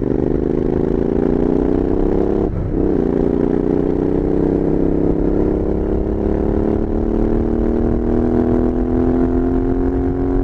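Royal Enfield Interceptor 650's 648 cc parallel-twin engine through Powerage Performance slip-on exhausts, pulling hard under way. The note climbs steadily, dips briefly for an upshift about two and a half seconds in, then climbs again more slowly in the higher gear.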